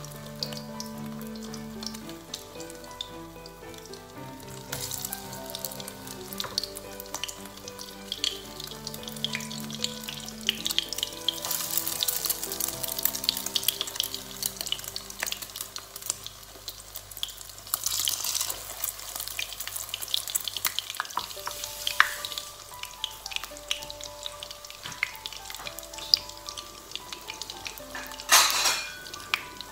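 Egg-battered eggplant slices frying in shallow oil, sizzling steadily with several louder surges of sizzle, the strongest near the end.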